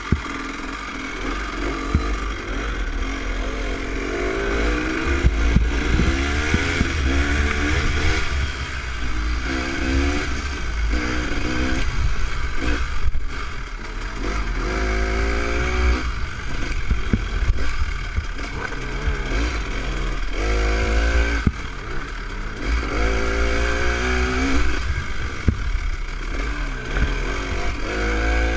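Dirt bike engine on a trail ride, revving up and easing off again and again as the throttle is worked at modest speed. There is a steady low rumble underneath.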